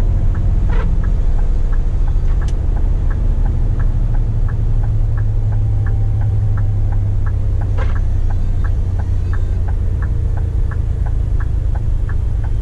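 Scania P420 truck's diesel engine droning inside the cab while engine braking. A turn-signal indicator ticks steadily about three times a second.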